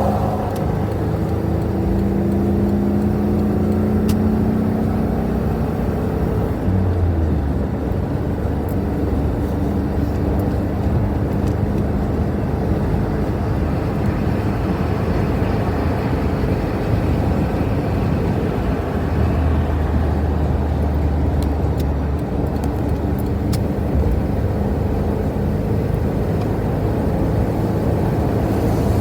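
A car being driven at highway speed: steady engine hum and tyre road noise.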